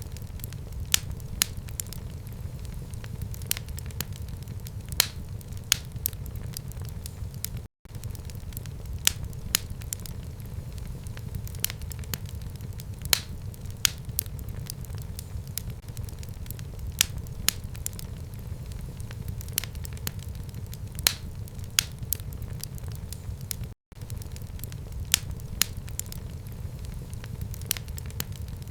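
Fire burning in a home fireplace: a steady low rumble of flames with frequent irregular sharp crackles and pops. The sound cuts out for an instant twice, about 8 and 24 seconds in.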